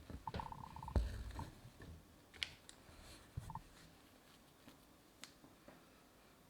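Faint clicks, taps and rustles of hand embroidery: a needle pushed through fabric and the thread drawn after it, with a louder knock about a second in.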